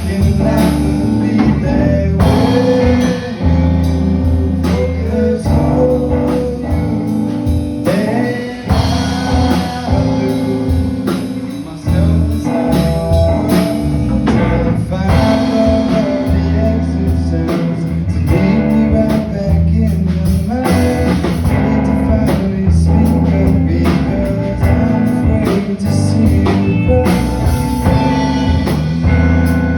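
Live band playing a blues-style song: electric guitar, bass and drum kit, with a voice singing.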